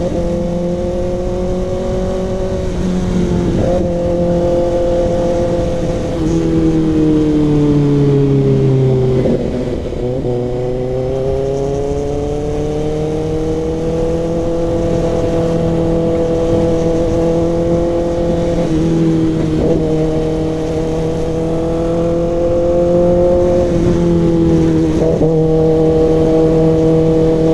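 Kawasaki ZX-6R inline-four running through an SC Project CRT exhaust while being ridden, a steady engine note at moderate revs. The pitch sags for a few seconds and climbs again after about ten seconds, with a few short breaks in the note along the way.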